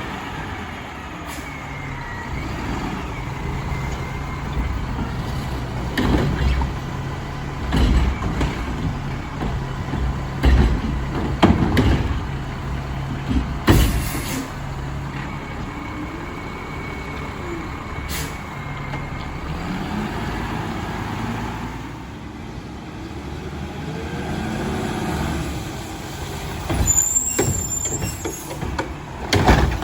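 Mack LR garbage truck's diesel engine running steadily, with several loud bangs between about six and fourteen seconds in and a short hiss of air-brake release. A faint steady high whine comes and goes.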